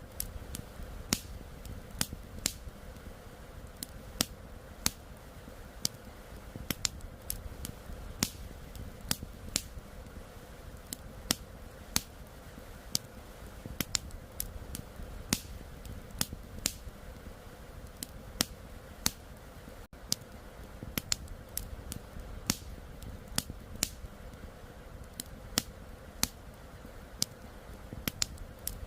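Wood campfire crackling: irregular sharp pops and snaps, a few a second, over a low steady rush of flowing river water.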